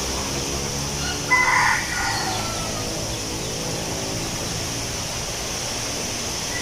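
Steady rustle of wind blowing through leaves. A rooster crows once about a second in, its call trailing off and falling in pitch.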